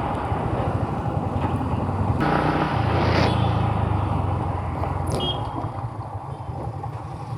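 Yamaha MT-15 motorcycle engine running as the bike rides along, a steady low rumble with road and traffic noise around it.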